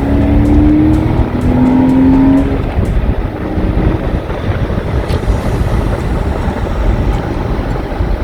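Porsche 986 Boxster's flat-six engine accelerating hard, its pitch rising for about two and a half seconds and then dropping at a gear change. Steady engine and road noise follow as the car drives on.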